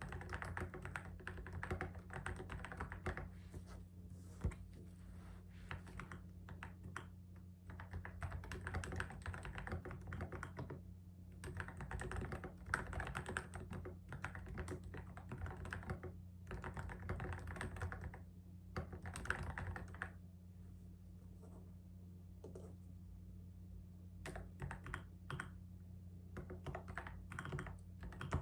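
Typing on a keyboard: quick runs of key clicks in bursts of a few seconds with short pauses between them, over a steady low hum.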